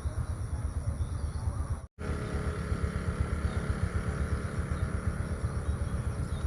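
Outdoor ambience dominated by wind buffeting the microphone in a gusty low rumble, with faint bird chirps above it. The sound cuts out completely for a moment about two seconds in, then resumes.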